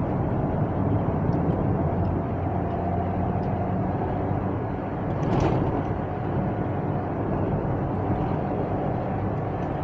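Renault Duster's 1.6 petrol engine pulling steadily under light throttle in fifth gear, climbing toward 3000 rpm, heard from inside the cabin along with road noise. There is a brief extra noise about halfway through.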